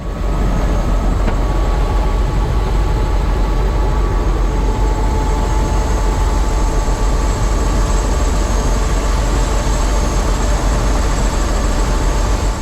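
Helicopter in flight: a loud, steady rotor and engine noise with a thin, steady high whine over it.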